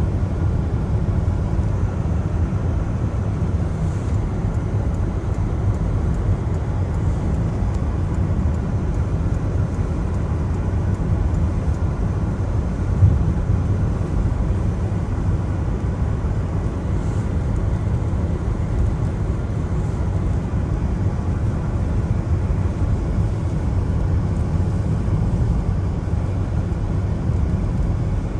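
A car driving on a wet road: a steady low rumble of road and tyre noise with a hiss of water, and one brief bump about 13 seconds in.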